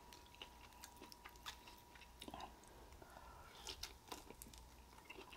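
Faint, scattered clicks and smacks of eating: lobster meat being handled, put in the mouth and chewed.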